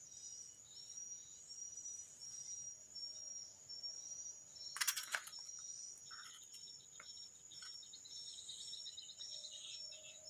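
Faint high-pitched insect chirping: a steady trill with short chirps repeating about twice a second, quickening near the end. A brief cluster of sharp clicks comes about five seconds in.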